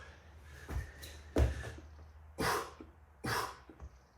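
A person panting hard, with forceful, rasping breaths, while doing burpees. Dull thuds of hands or feet hitting the floor come about a second in, the second one the loudest.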